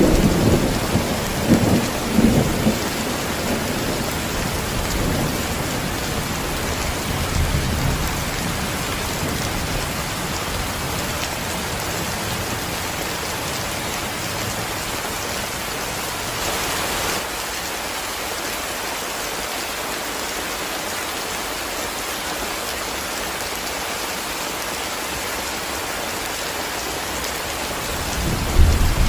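Heavy rain falling steadily, with a low thunder rumble dying away over the first few seconds and another rumble building near the end.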